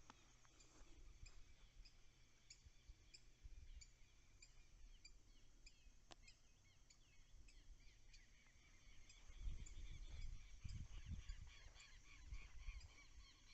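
Faint dawn chorus in forest by a lake: a steady drone of crickets and other insects under short high chirps repeating about twice a second, with birds calling more and more densely in the second half. A low rumble comes in about nine seconds in.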